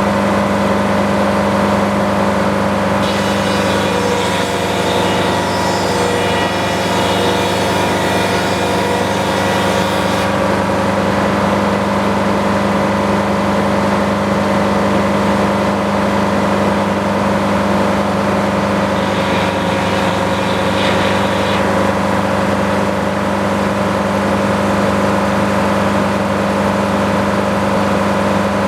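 Sawmill engine running steadily under load. Twice, from about three to ten seconds in and briefly around twenty seconds, a higher hiss rises over it, fitting the blade cutting through the log.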